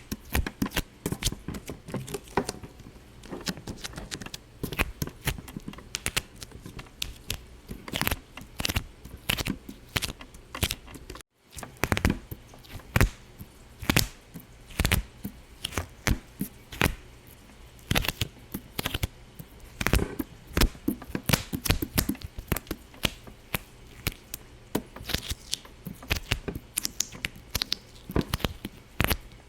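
Irregular sharp pops and crackles, several a second, with a brief break about eleven seconds in.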